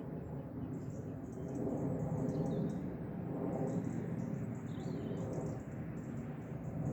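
Small birds chirping with short, high calls over a steady low outdoor rumble.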